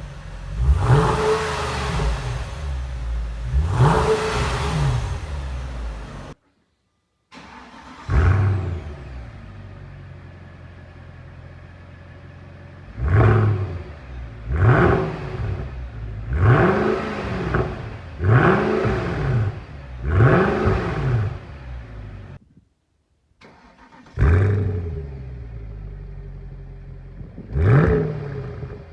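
Mercedes S63 AMG V8 with an aftermarket sport exhaust, revved in a series of quick throttle blips, each rising and falling sharply, with steady idling between them. The sequence breaks off in silence twice.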